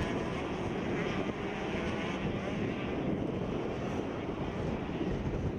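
Several 65cc two-stroke motocross bikes racing, their engines running over one another with pitch rising and falling as they rev.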